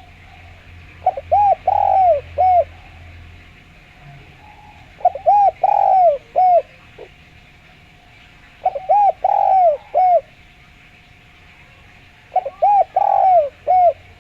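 Spotted dove (derkuku) cooing: four repeated song phrases about every three and a half seconds, each a quick run of short coos with a longer, louder coo in the middle.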